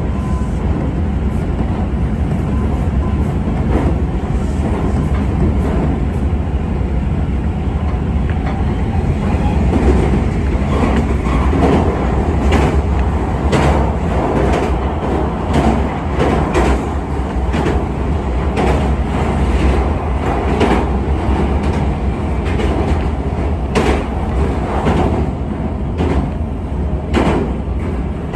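Interior running sound of a Tobu 200-series limited express train at speed: a steady low rumble of wheels and running gear. Irregular sharp clicks and knocks from the wheels over rail joints and points come thicker from about a third of the way in, and a train passes close on the next track about halfway through.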